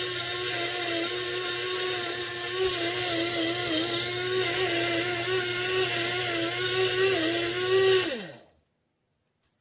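Electric blade spice grinder motor running at a steady high whine, wavering slightly as it grinds dried garlic into powder. About eight seconds in the button is released and the motor winds down to a stop, its pitch falling quickly.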